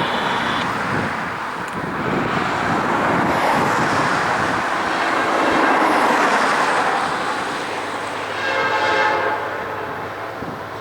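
A train passing close by, with steady rushing and clattering of wheels on rail, and a short horn blast about a second long near the end.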